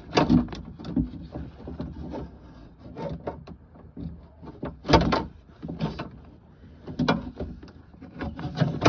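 Irregular clicks, knocks and scrapes of a flathead screwdriver prying at plastic car-door trim to pop a part out, with a few sharper knocks, the loudest about five seconds in.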